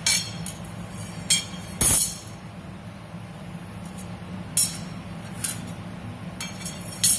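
Sharp metallic clinks and taps on steel pieces, six or seven at uneven intervals, each ringing briefly high up. A steady low hum runs underneath.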